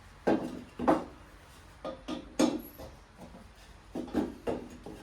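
About half a dozen separate knocks and clunks of a wooden block and hand tools against a mower blade and deck, as the block is wedged in to hold the blade still for tightening.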